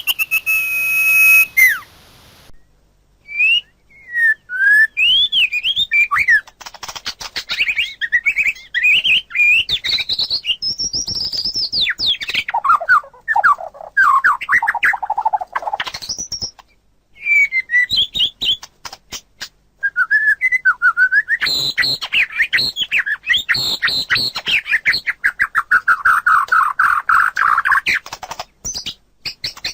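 Caged songbird recordings of a common iora and a white-rumped shama singing: varied whistled phrases that glide up and down, mixed with fast repeated chattering notes. The song breaks off briefly a few seconds in and again about halfway through.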